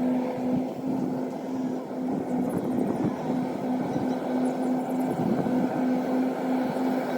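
Engine of a rice-harvesting machine running steadily, a constant drone with a steady hum in it.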